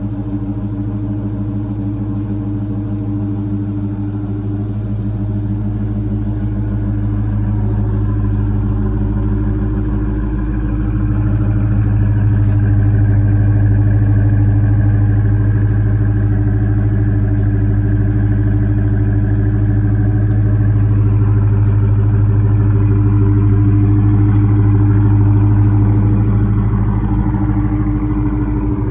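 Dodge Charger R/T's 5.7 L Hemi V8 running steadily through Carven R-series mufflers with the resonators deleted. It grows louder about ten seconds in and eases off near the end.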